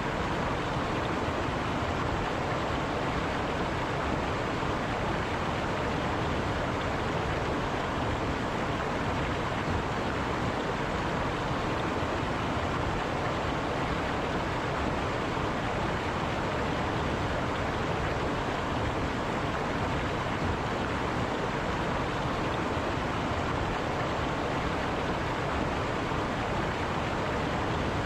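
A river running steadily, its water rushing in an even, unbroken noise.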